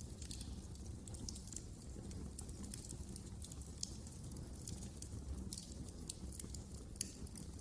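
Wood fire crackling in a fireplace: irregular sharp crackles and pops over a steady low rumble of the flames, with one louder pop about four seconds in and another near the end.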